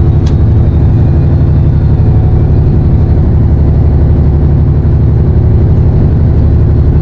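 A fishing boat's engine running steadily, a loud low drone, with one sharp click about a third of a second in.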